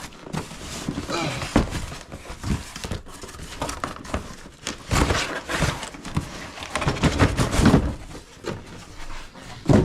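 Cardboard shipping box and its packing being handled and opened: irregular rustling, scraping and light knocks.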